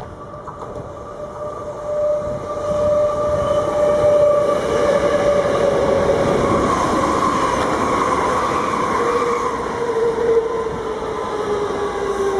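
Train running through the station, loud from about two seconds in, with a whine that falls slowly in pitch.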